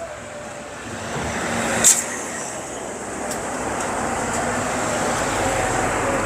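Road traffic noise from passing vehicles, swelling about a second in and then holding steady, with one short click near two seconds.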